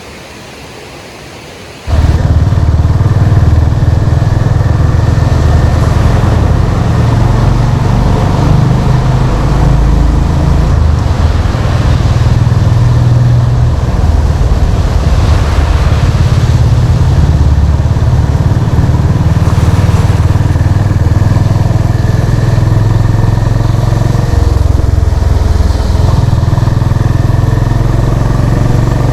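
Honda CB350 RS's air-cooled single-cylinder engine and exhaust, heard loud and steady while riding, its pitch shifting a little with the throttle. It cuts in suddenly about two seconds in, after a quieter steady hiss.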